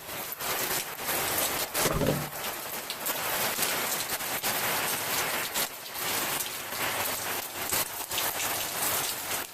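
Heavy rain falling, a dense steady hiss with many close drop hits.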